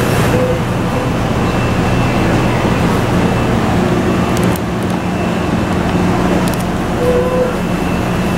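Steady running noise of an electric train, with a constant low hum under an even rumble and no change in speed.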